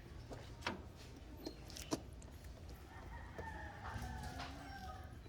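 A rooster crowing faintly: one long drawn-out call starting about three seconds in and dropping slightly at its end. A few light clicks come before it.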